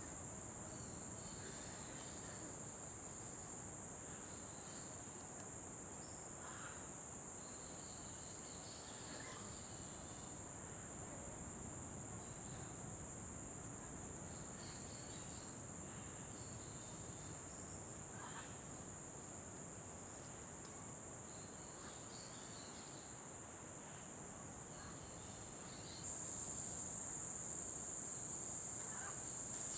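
Steady high-pitched insect chorus, with faint short calls here and there. It jumps suddenly louder about 26 seconds in.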